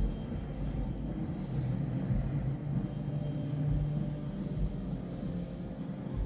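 Continuous low rumble of distant festival noise, with a low hum holding for a second or two around the middle.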